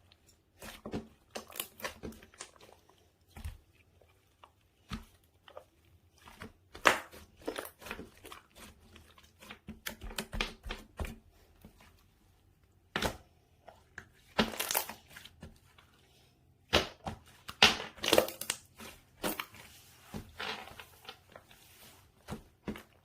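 Slime being squeezed, stretched and pressed by hand, giving irregular clusters of crackles and squishy pops with short pauses between.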